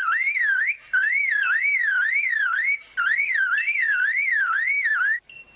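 Male superb lyrebird mimicking a car alarm: a clear whistled tone wailing up and down about three times a second, in three runs with brief breaks between them.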